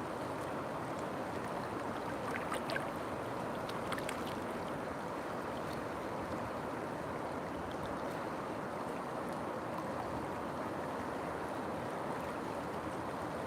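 River water flowing in a steady rushing stream, with a few brief splashy clicks in the first few seconds.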